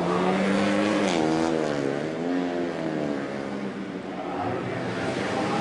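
Racing motorcycle engines revving as they pass, their pitch rising and falling several times.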